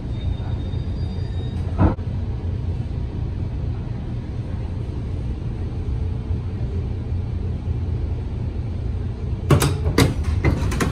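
Steady low rumble inside a passenger rail car at its doors, with a single knock about two seconds in and a quick cluster of sharp clacks near the end.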